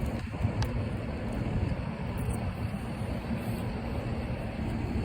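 Wind buffeting the microphone: a steady, low rumble.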